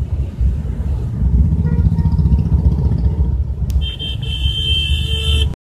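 Steady low rumble of a car travelling on a wet road. About three and a half seconds in, a vehicle horn sounds for nearly two seconds. The sound cuts off abruptly just before the end.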